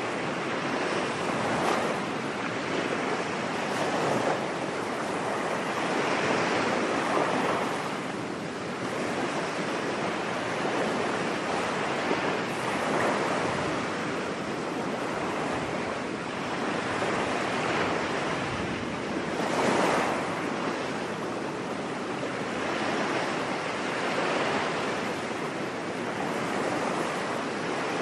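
Ocean surf washing onto a beach: a steady hiss of breaking waves that swells and eases every few seconds.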